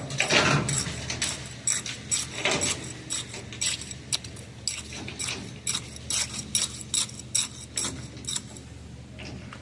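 Irregular sharp metallic clinks and taps, about two or three a second, over a steady low hum.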